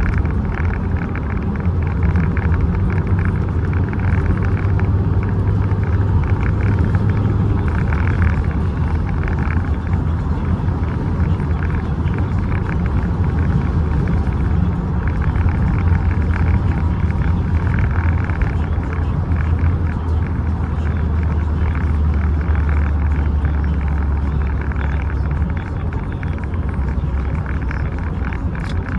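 1996 BMW Z3's four-cylinder engine running, a loud continuous low rumble whose pitch wanders slowly and dips a little about three-quarters of the way through.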